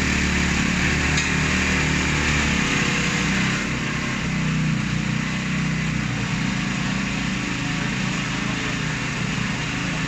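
An engine running steadily, its low hum shifting about two and a half seconds in.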